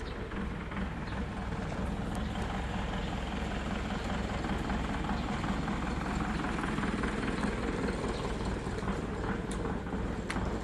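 Steel wire mesh welding production line running: a steady mechanical noise with a few sharp ticks.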